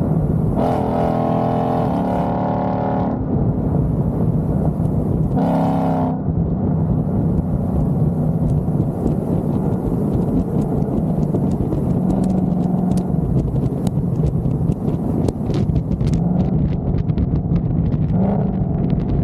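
Car engine running steadily while driving, with road noise, a couple of brief pitch changes in the first six seconds, and light ticks near the end.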